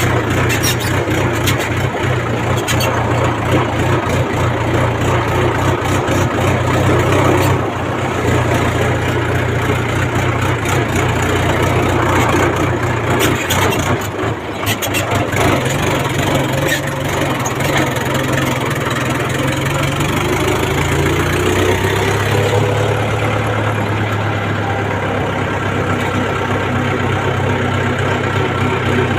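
Mahindra tractor's diesel engine running steadily with a deep, even note, and a whine that slowly rises in pitch from about three-quarters of the way through.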